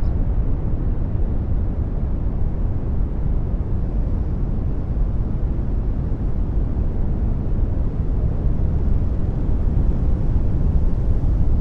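Synthesized brown noise: a steady, deep rumbling hiss, heaviest in the bass, gently swelling and easing in level.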